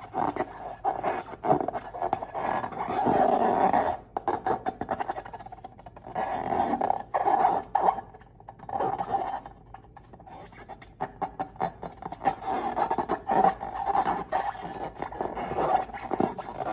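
Slime and rubber balloons being worked by hand close to the microphone: a dense, irregular run of crackling, squishing and rubbery scraping sounds that comes and goes in loud stretches.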